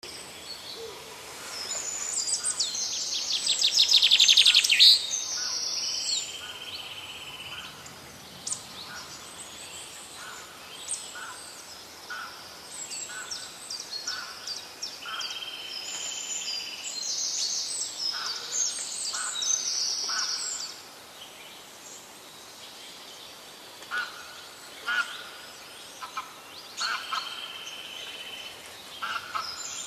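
Several wild songbirds singing and calling over one another, with a loud, rapid trill that builds about two seconds in and stops near five seconds, and short buzzy held notes repeated a few times.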